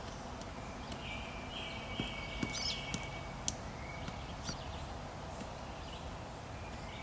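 Pileated woodpecker pecking and chiselling into a log after ants: irregular single knocks, several in a row around the middle, not a fast drumming roll.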